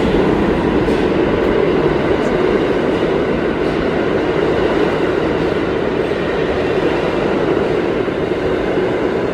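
Passenger train running, a steady loud rumble heard from inside the carriage.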